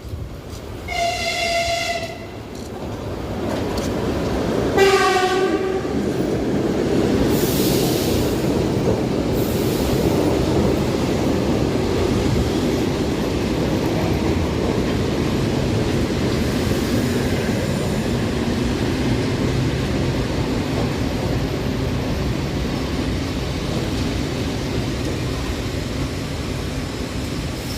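ED4M electric train sounding its horn twice, a higher note about a second in and a lower note around five seconds. Its running noise then swells and stays loud as the train moves through.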